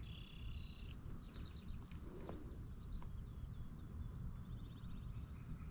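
Songbirds chirping and calling, including a short trill near the end, over a low rumble. Two light knocks come about two and three seconds in.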